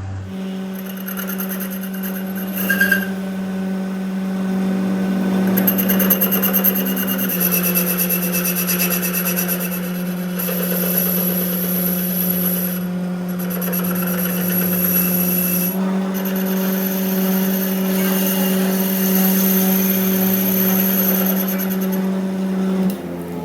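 Electric power tool running steadily while cutting or grinding the metal pulley, with a scraping hiss over a steady motor hum. The hum shifts slightly in pitch twice and cuts off near the end.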